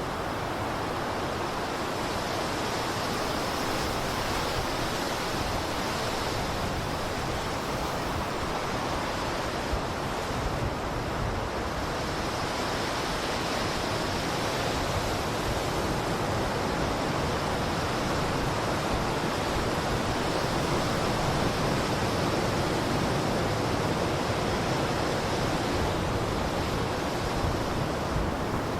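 Blizzard wind: a steady, dense rush of noise with only slight swells, no gusts standing out.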